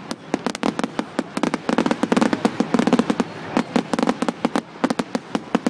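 Fireworks going off in a fast, dense run of sharp cracks and pops, many a second, with a few brief lulls.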